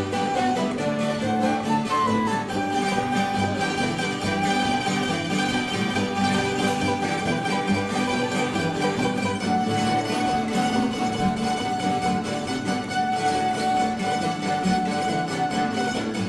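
Instrumental music from a string band, plucked strings to the fore, playing steadily without singing.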